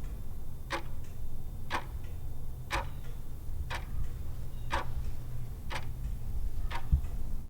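Clock ticking, used as a quiz countdown-timer sound effect: one sharp tick about every second over a steady low hum.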